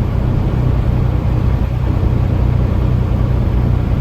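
Semi truck's engine and road noise heard inside the cab while driving: a loud, steady low drone.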